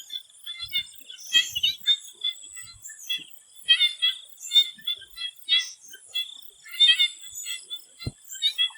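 A chorus of swamp frogs calling in short, rapid pulsed bursts that overlap and come irregularly. Behind them runs a steady high-pitched whine. A single low thump comes near the end.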